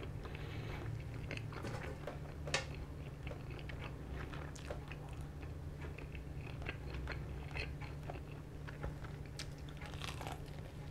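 Close-up chewing and crunching of spicy crispy-coated fried chicken, with many small crackly mouth clicks and one sharper crunch about two and a half seconds in. Near the end a fresh bite is taken from a piece of chicken held in the hand.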